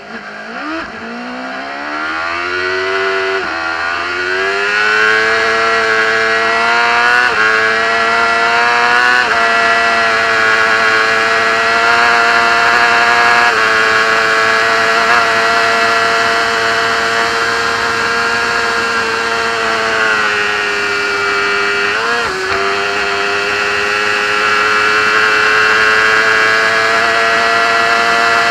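Race motorcycle engine heard onboard at racing speed. It drops to low revs at the start, then accelerates hard, the pitch climbing in steps as it changes up through the gears. It then holds high revs flat out, with a short roll-off and pick-up again about two-thirds of the way through.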